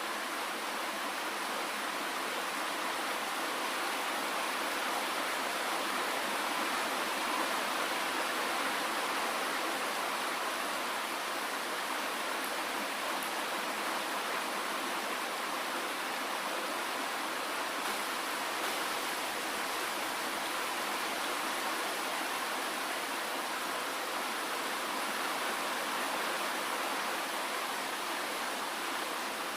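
Steady rain, an even hiss with no single drops or pauses standing out and almost no low rumble.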